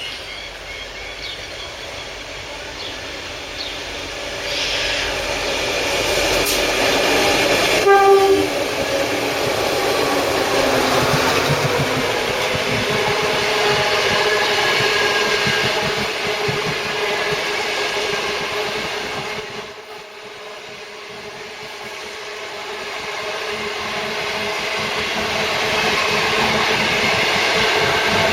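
The Sunlander passenger train running through the station, with a steady rolling rumble and rail clatter that builds and then dips briefly before building again. A short horn blast sounds about eight seconds in.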